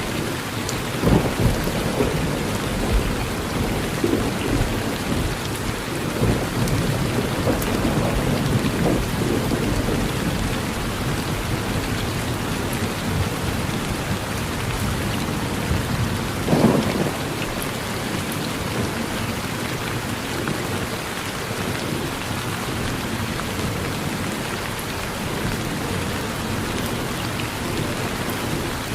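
Steady rain falling on a porch, with rolling thunder rumbling through the first ten seconds or so and a sharper thunderclap about two-thirds of the way in.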